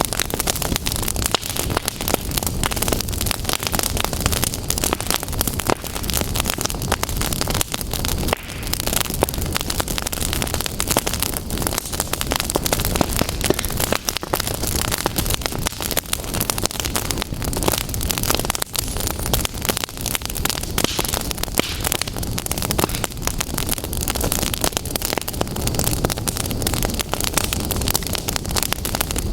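Fire crackling steadily, a dense, unbroken run of small pops and snaps over a low rumble.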